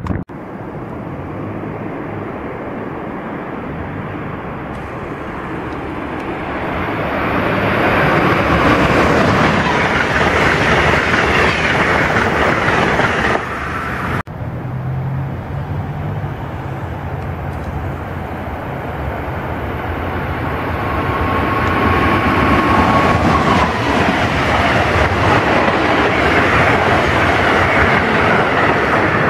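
Passenger train passing at speed: a steady rush of wheels on rail that builds over several seconds. After a sudden cut about halfway through, a second passing train swells up again.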